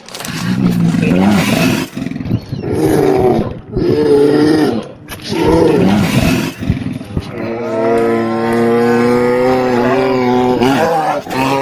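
Grizzly bear vocalising: four loud, rough roars about a second and a half apart, then a long, steady, held bellowing call from about seven seconds in, broken briefly near the end before it starts again.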